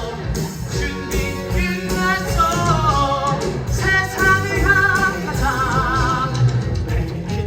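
A musical-theatre song: a singer's melody over instrumental accompaniment, with long notes held with vibrato past the middle.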